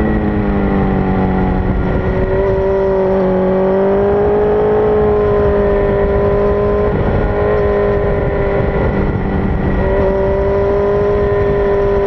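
Suzuki GSX-R1000 K6 inline-four sportbike engine running hard at track speed, with wind rush on the microphone. The engine note falls over the first couple of seconds, then holds a steady pitch, with short breaks about seven and ten seconds in.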